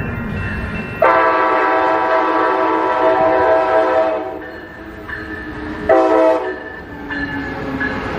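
Passenger train horn sounding one long blast of about three seconds, then a short blast about two seconds later, over the low rumble of the train.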